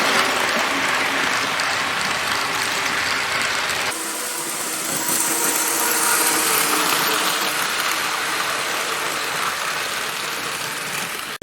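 Two TYCO HO-scale SD24 diesel model locomotives running at high speed around the track: a steady whir of the small motors and gears with the rattle of wheels over the rails. The sound changes abruptly about four seconds in.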